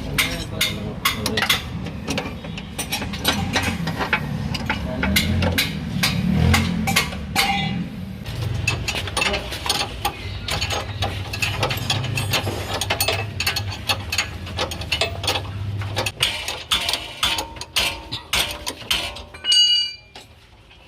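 Repeated metallic clicks and clinks of hand tools working on metal parts, over a steady low hum that stops about 16 seconds in.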